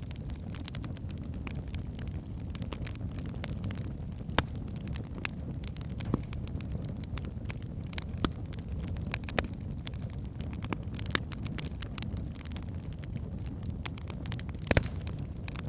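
Log fire burning in a fireplace: a steady low rumble with scattered sharp crackles and pops. The loudest is a quick double pop near the end.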